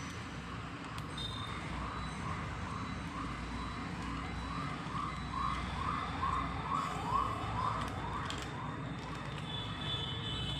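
Electronic siren of a battery-powered toy vehicle: a short rising whoop repeated about twice a second, stopping near the end, over a steady low hum.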